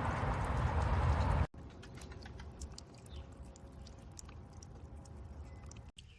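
Solar bird bath fountain spraying and splashing water, cut off abruptly about a second and a half in. Faint scattered clicks and ticks follow.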